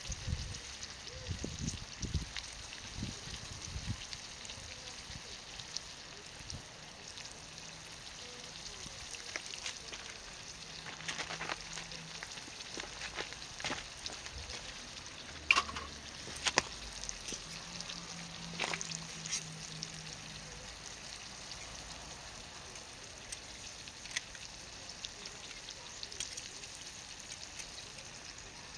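Ajillo of mushrooms and shrimp in olive oil sizzling steadily in a small pan. A few sharp clicks come near the middle, and there are some low thumps in the first few seconds.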